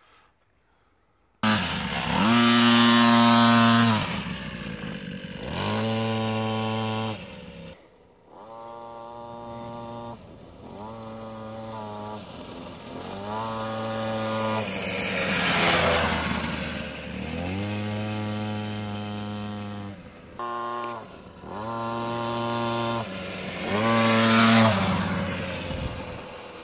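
A 50cc mini cross bike's small two-stroke engine revving up and falling back again and again as it is ridden, starting about a second and a half in.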